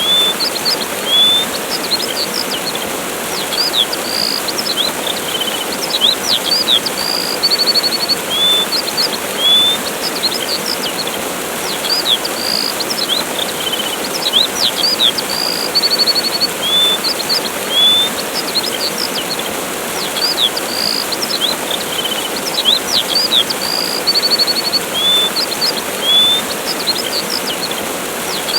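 Steady rushing of a waterfall with birds chirping over it: short chirps, quick trills and upswept notes. The same sequence of calls repeats about every eight to nine seconds.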